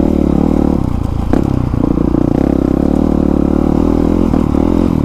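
Honda CRF450R's single-cylinder four-stroke engine running steadily through an aftermarket exhaust while being ridden, with a sharp knock about a second in and lighter clatter from the bike over the ground.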